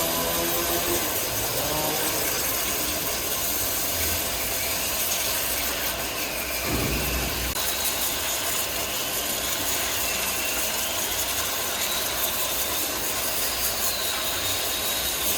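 Woodworking machinery running steadily in a workshop, a continuous mechanical clatter with a faint high whine that wavers in pitch, and a low thud about seven seconds in.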